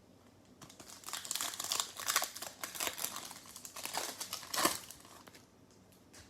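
Plastic wrapper of a trading-card pack crinkling as it is handled and opened: about four and a half seconds of dense crackling, loudest shortly before it stops.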